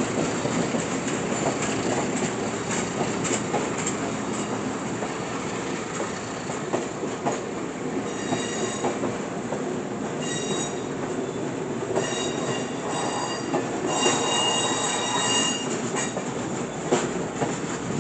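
A passenger train's cars roll past with a steady rumble and clicking over the rail joints. High-pitched wheel squeal breaks out in short bursts several times in the second half.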